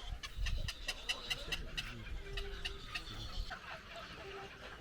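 Birds calling in a rapid series of short, sharp chirps, densest in the first two seconds, over a low rumble on the microphone.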